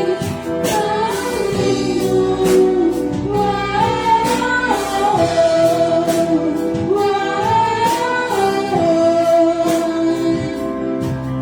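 Worship song played by an orchestra with voices singing a slow melody of long held notes over sustained chords.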